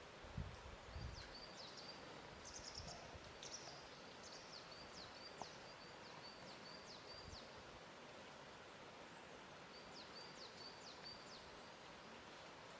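Faint lakeshore ambience: a steady soft hiss with a few gentle low thumps of water lapping in the first second or so, and small birds chirping in quick runs of short, high, falling notes, once around the third second and again near the end.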